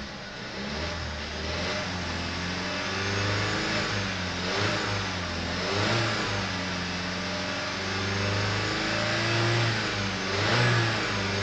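2017 VW Golf's 1.4-litre turbo petrol four-cylinder engine being revved with the car standing still, its pitch rising and falling several times between about 2,000 and 4,000 rpm.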